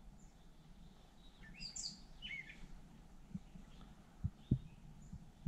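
Songbirds chirping, a quick cluster of short high calls about two seconds in, with a few soft low thumps in the second half.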